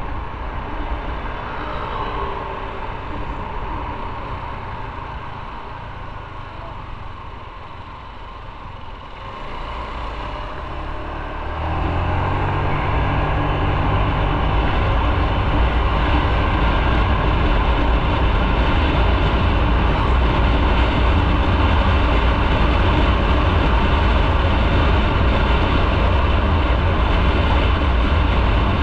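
Motorcycle running on the road, engine and wind and road noise together. Quieter for the first ten seconds, then about twelve seconds in it grows louder into a steady low engine note with a constant rush.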